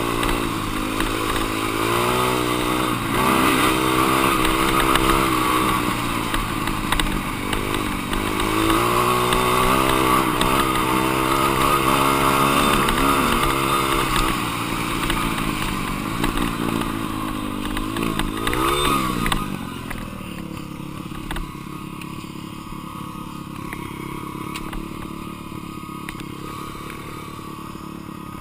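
Dirt bike engine revving up and down repeatedly while being ridden. About nineteen seconds in it revs up once more, then drops sharply in pitch and runs on quieter and steadier.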